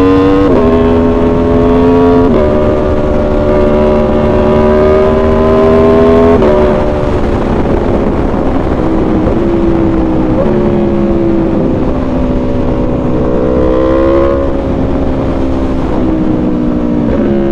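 Aprilia Tuono V4's V4 engine and exhaust under way, accelerating and upshifting, with a drop in pitch at each shift: three shifts in the first seven seconds. After that it runs at a lower, more even pitch with a few smaller shifts, over a low rush of wind.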